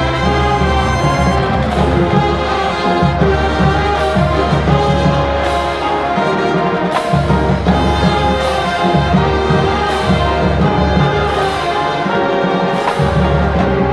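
High school marching band playing a classic-rock arrangement: full brass chords held over a heavy low end, with percussion hits about every one and a half seconds.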